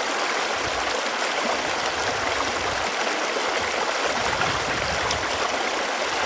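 Running water flowing with a steady, even rush.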